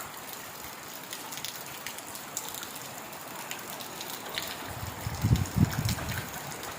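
Heavy rain falling steadily on forest foliage, with scattered sharp drip taps. From about five seconds in, uneven low rumbles come and go and are the loudest part.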